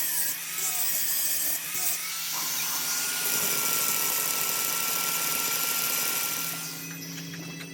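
Power tool running steadily with a high whine, stopping about seven seconds in.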